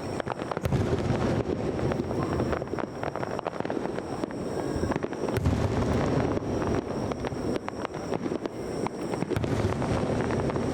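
Aerial fireworks going off continuously: many sharp crackles and pops over a steady low rumble of bursts.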